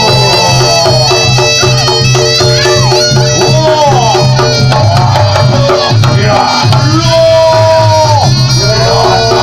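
Reog Ponorogo gamelan music: a reed-pipe melody bending up and down in pitch over hand drums and ringing gongs.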